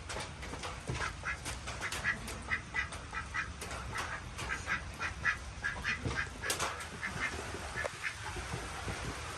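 Ducks quacking in a quick run of short calls, several a second, which die away about eight seconds in. Steady rain hiss runs underneath.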